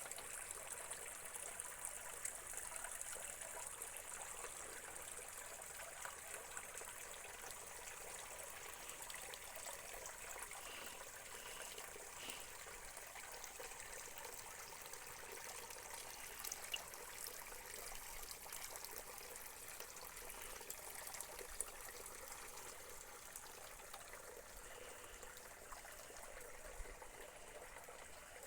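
Water trickling steadily, like a small stream or rivulet running over rocks.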